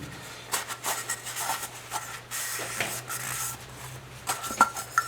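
Air filter and foam pre-filter being pushed by hand into the engine's air cleaner housing: rubbing and scuffing, with a scraping stretch in the middle and several light clicks and knocks near the end.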